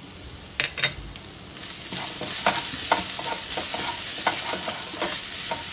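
Chopped green chillies and onions frying in oil in a kadai, sizzling. A wooden spatula stirs them, scraping and tapping against the pan. The sizzle grows louder about a second and a half in.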